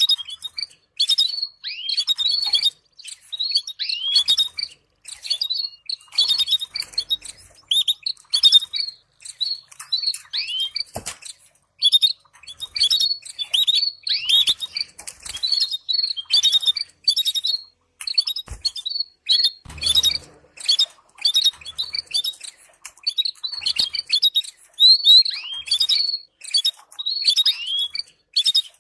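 Canaries chirping and calling: a steady stream of short, high chirps and quick falling notes, several a second, with a few soft knocks in between.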